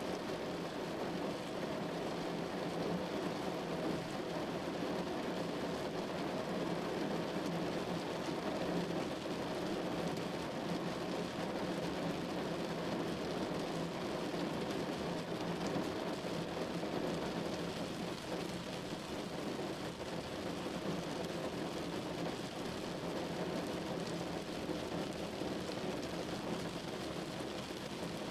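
Steady rain falling on a window: an even, unbroken hiss with no single drops or thunderclaps standing out, heaviest in the lower range.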